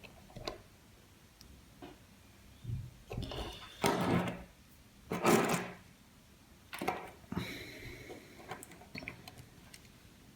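Faint handling noises: a few short rustles, scrapes and clicks as a small N gauge model locomotive is picked up and turned in the hands, the loudest about four and five seconds in.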